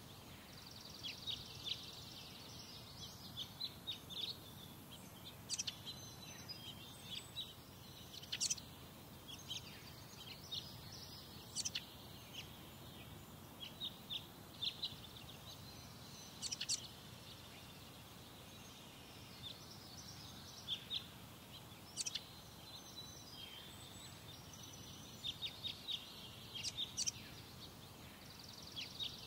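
Birds chirping: many short, sharp, high calls, scattered irregularly and often in quick clusters, over a faint steady background hum.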